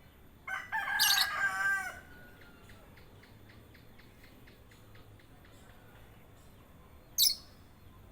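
Birds calling: about half a second in, one loud call with a wavering pitch lasts about a second and a half, with a sharp high chirp over it. Another brief high chirp comes near the end.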